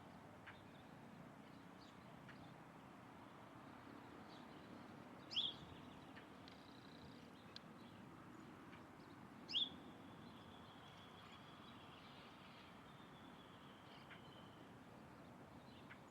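A bird calling: two sharp, high chirps about four seconds apart over a faint background hiss. The second chirp runs into a thin, high held note lasting about four seconds.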